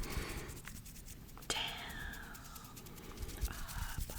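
Hands rubbing and scratching skin, with many fine crackling clicks and a sharp click about a second and a half in, followed by a falling swish.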